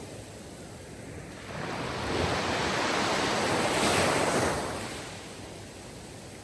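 Sea waves breaking on a shore: a steady wash of surf, with one wave swelling about a second and a half in, cresting near the middle and fading away.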